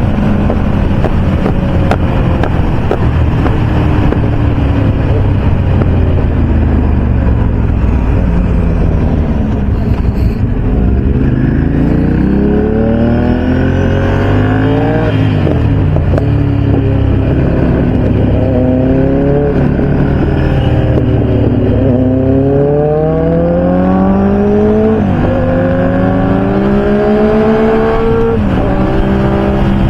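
Sport motorcycle engines at highway speed, engine note falling in the first part, then repeatedly climbing under acceleration and dropping sharply at each upshift, with more than one bike's engine heard at once.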